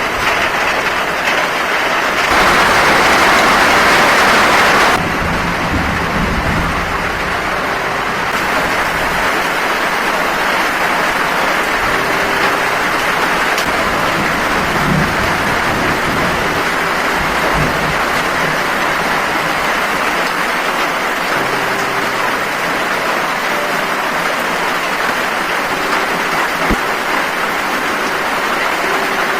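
Heavy rain falling steadily, with a louder spell of downpour about two to five seconds in.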